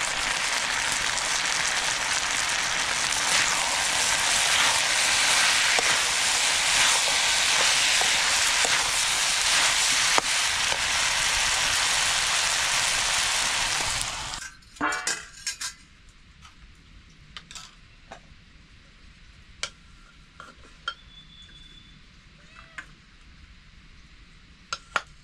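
Food frying in hot oil in a pan: a loud, steady sizzle that cuts off suddenly about fourteen seconds in. After that it is much quieter, with a few scattered clinks and knocks.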